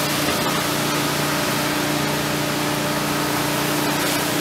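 Hurricane rain and wind making a steady, even hiss, with the steady hum of a neighbour's generator running underneath.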